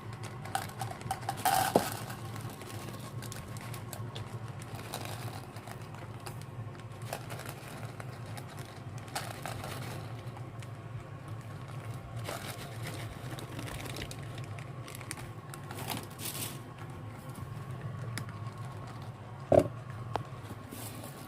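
Cat eating, with irregular small crunches and clicks and a couple of louder knocks, over a steady low hum.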